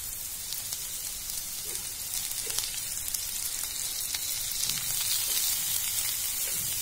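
Diced vegetables sizzling in hot ghee in a kadhai: a steady frying hiss with scattered small pops. It grows a little louder in the second half.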